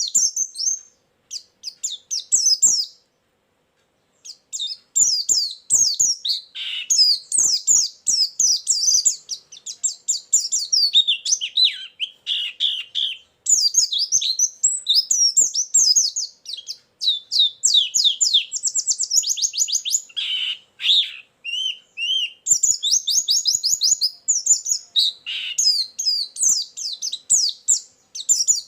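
White-eye (pleci) singing a loud, high, fast chattering song in near-continuous phrases of quick chirps and warbles, with a short pause about three seconds in. Past the middle comes a rapid, evenly spaced trill, the burst keepers call 'tembakan'.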